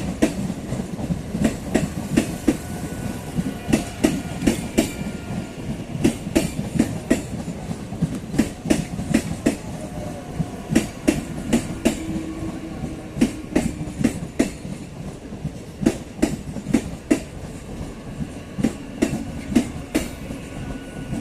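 Electric local train (EMU) running through the station, its wheels clattering over rail joints in a continuous run of sharp clicks, a few each second, over a steady low rumble.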